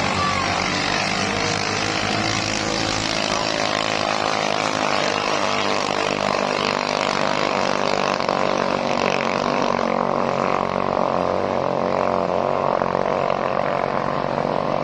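Racing katinting longtail boat engines running flat out, a steady unbroken drone.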